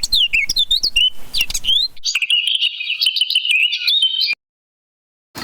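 Small songbirds singing: quick, varied chirps that sweep up and down, then a fast, high twittering trill. The song cuts off abruptly a little over four seconds in, followed by a second of dead silence.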